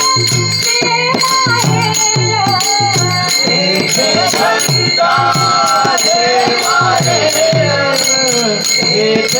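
Marathi abhang devotional music: a steady drum beat with jingling, ringing hand cymbals, and a girl's voice carrying the wavering melody from partway through.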